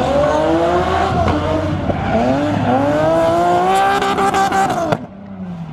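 Drift car's engine revving hard, its pitch climbing and dipping again and again as it is held near the top of the revs. About five seconds in it breaks off abruptly and drops to a quieter engine.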